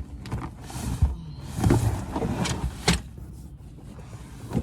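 Irregular rustling and clunking of gear being handled, with a few sharp knocks.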